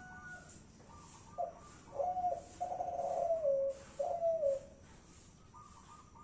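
Spotted dove (tekukur, Kelantan type) cooing: one phrase of a short note followed by three longer notes, the last two sliding down in pitch, starting about a second and a half in.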